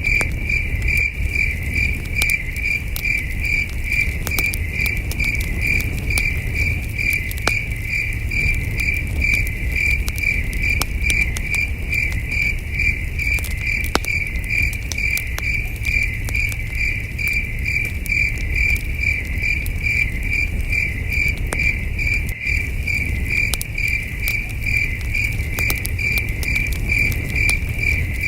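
Crickets chirping in an even, unbroken pulse, about two to three chirps a second, over a campfire crackling with scattered sharp pops and a steady low rumble.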